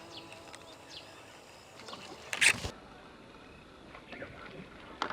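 A single lure cast with a baitcasting rod and reel: one short rush of noise about halfway through, over faint high chirping in the background.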